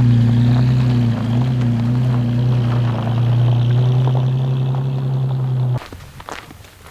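Engine running at a steady, constant pitch. It starts and cuts off abruptly.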